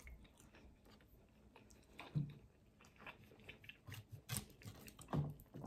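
Faint chewing: a person eating with soft, irregular mouth clicks and smacks, a few of them slightly louder.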